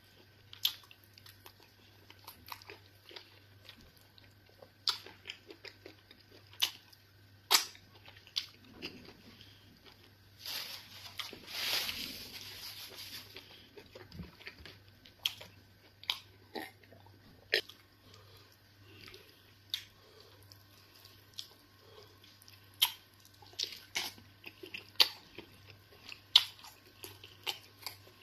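Close-miked chewing and mouth sounds of a person eating eba and fufu with egusi soup: irregular sharp wet smacks and clicks. A longer, noisier stretch lasts a few seconds near the middle, over a faint steady hum.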